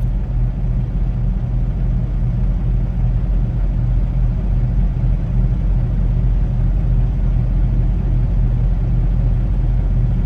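Semi truck's diesel engine running at a steady low rumble.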